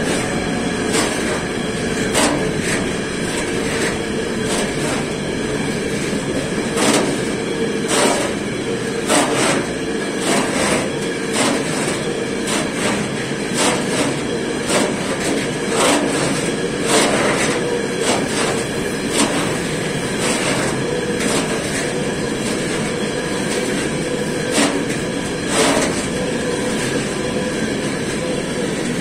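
Freight train of flat wagons loaded with containers rolling past at speed: a steady rumble of steel wheels on rails, with sharp wheel clacks at irregular intervals, often about a second apart.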